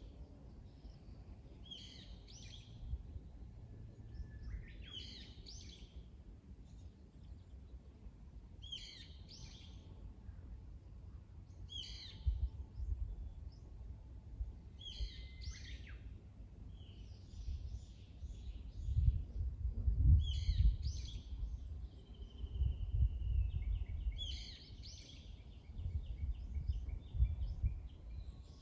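Songbird singing, repeating a short bright phrase about every two seconds. Under it runs a low rumble that grows louder and gusty from about two-thirds of the way in.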